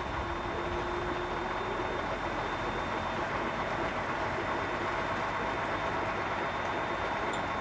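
Container truck's diesel engine running steadily.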